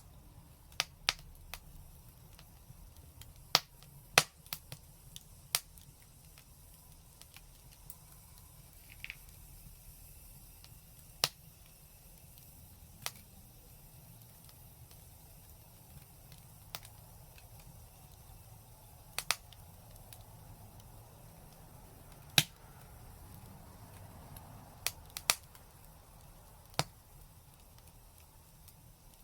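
Fire crackling: irregular sharp pops and snaps, sometimes two or three close together, over a faint steady low background.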